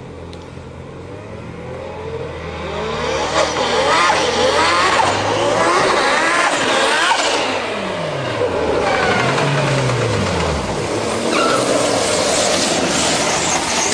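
Turbocharged Honda CRX del Sol accelerating hard. Its engine revs climb, drop back and climb again several times as it shifts up through the gears, getting louder as the car approaches and easing off as it comes past.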